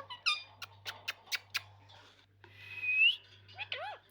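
Pet parrot making a quick run of about five sharp clicks, then a single rising whistle, then short squawky glides near the end.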